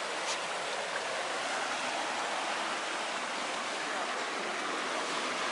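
Steady rushing of a river or stream flowing over rocks, an even hiss.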